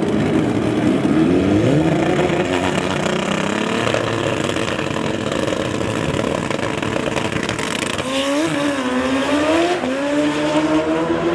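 Racing engines revving, their pitch gliding upward in the first couple of seconds, then a steady drone, with a wavering, bending engine note near the end.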